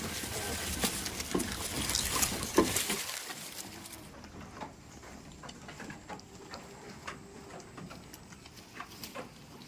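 Goats moving about in their pen: rustling with many small taps and clicks that is busy for the first three seconds, then thins to scattered clicks.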